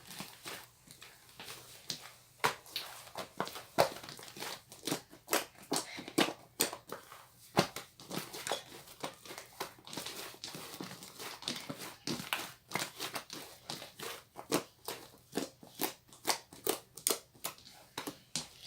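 Cloud slime made with instant-snow powder being squeezed and stretched by hand, giving dense, irregular crackling pops several times a second.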